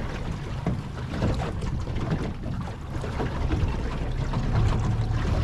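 Small boat on the open sea: water slapping against the hull with scattered small knocks, over a steady low rumble that grows a little louder near the end, with wind on the microphone.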